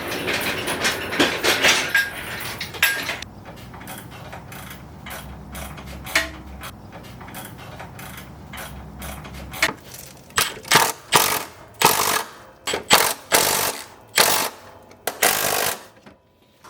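Hand socket ratchet clicking as the new engine's mount bolts are tightened: dense clicking for the first few seconds, then a quieter stretch, then about a dozen separate ratchet strokes in the last six seconds.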